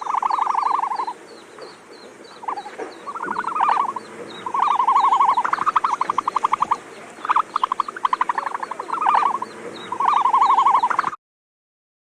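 Frogs calling: repeated croaking calls, each about a second long and made of fast pulses like a rattling trill, over a faint, rapid ticking chorus. The calls stop abruptly about eleven seconds in.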